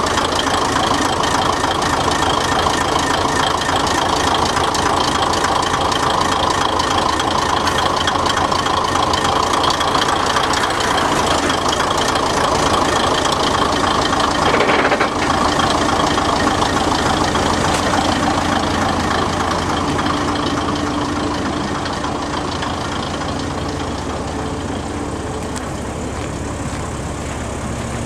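Kominato Railway KiHa 200 diesel railcar's DMH17 straight-eight diesel engine idling steadily, with a brief burst of noise about halfway through.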